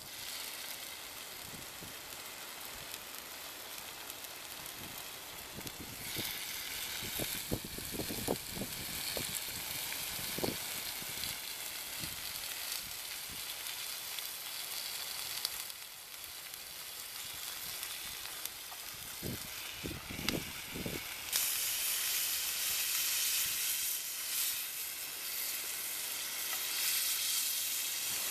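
Food frying in a pan over a wood campfire: a steady sizzling hiss that gets louder about six seconds in and again about twenty seconds in, with scattered pops and spits.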